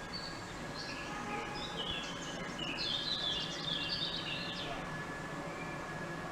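Small birds chirping in short high notes over steady outdoor background noise, with a louder, rapid trilling song phrase from a little under three seconds in to nearly five seconds.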